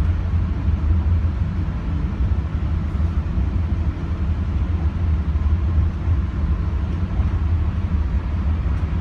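Steady low rumble of the cable-drawn Aerotrén people-mover train running along its elevated guideway, heard from inside the car.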